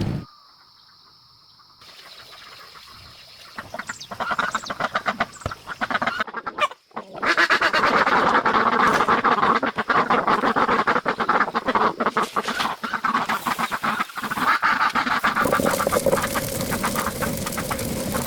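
A flock of ducks quacking, many calls overlapping in a dense chatter that builds up a few seconds in after a quiet start.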